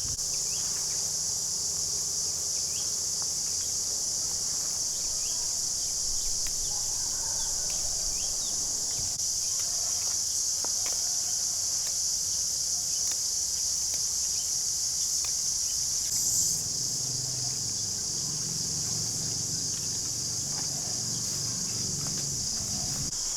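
A steady, high-pitched insect chorus that swells briefly about sixteen seconds in.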